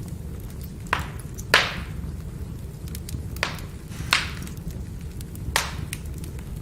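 Firewood burning: a steady low rumble of the fire with sharp wood snaps and pops every second or two, the loudest about a second and a half in, plus small crackling ticks.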